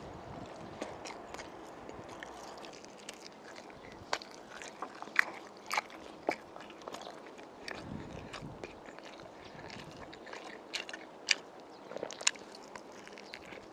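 Close-up eating sounds of a person chewing spicy braised pork ribs: wet chewing with sharp mouth smacks and clicks scattered irregularly.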